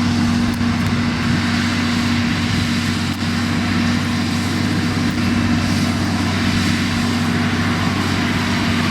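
Claas Challenger 55 tracked tractor's diesel engine running steadily at an even, constant pitch.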